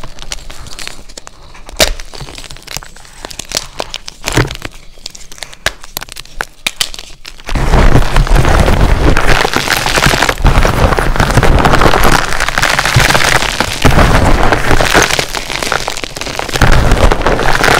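Blocks of SPRI gym chalk cracking and crumbling as they are crushed: scattered sharp snaps for the first seven seconds or so, then a sudden change to dense, continuous loud crunching.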